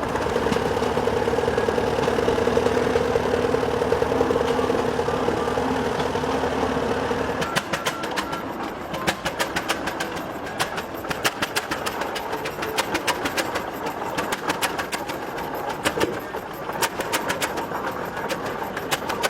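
Old tractor engines running: a steady hum with a held tone for about seven seconds, then it changes abruptly to an engine running with rapid, sharp, clattering beats.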